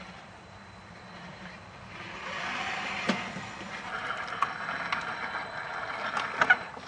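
Tamiya CC-01 RC crawler driving, its small electric motor and gears whirring, rising about two seconds in. Several sharp clicks and knocks, two close together near the end, as the chassis and tyres meet rough ground.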